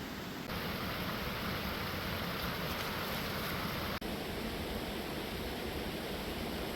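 Steady rush of falling water from a waterfall. It grows louder and brighter about half a second in, then drops back abruptly at about four seconds.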